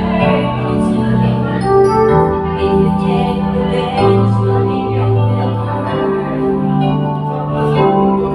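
Electronic organ or keyboard playing sustained chords over a moving bass line, an instrumental passage of a live song accompaniment.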